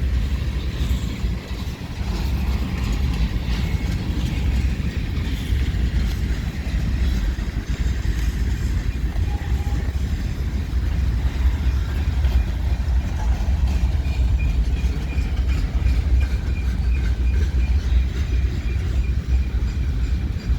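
Slow-moving CN freight train rolling past: a steady low rumble of the cars going by. From about two-thirds of the way through, a faint high-pitched tick repeats about three times a second.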